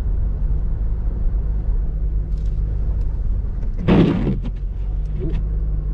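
Car driving on snowy streets, heard from inside the cabin: a steady low engine and road rumble, with one short, loud burst of noise about four seconds in.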